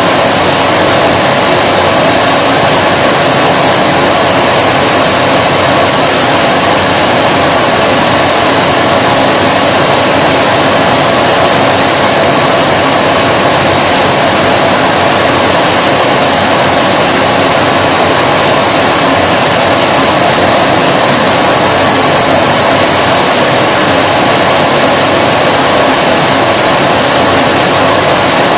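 Vacuum cleaner running steadily and loudly, a constant whooshing motor noise with a faint steady whine and no changes in pitch or level.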